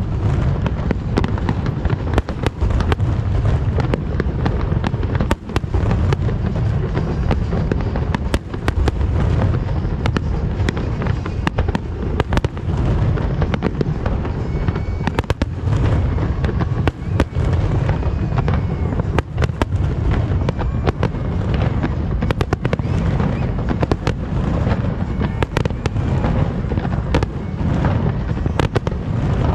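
Large fireworks display in full barrage: a dense, continuous stream of sharp shell bursts over a steady low rumble.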